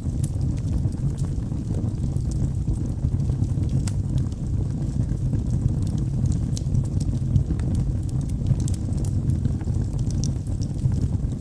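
Wood fire burning in a fireplace: a steady low rush of flames with scattered sharp crackles and pops from the burning logs.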